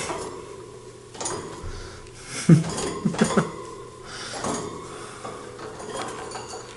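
Budgie clambering about a small wire cage: light metallic clinks and rattles of the bars and fittings, with a short cluster of louder knocks a little before the middle.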